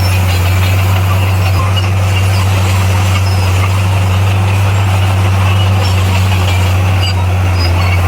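Bulldozer's diesel engine running steadily at constant revs, a continuous low drone.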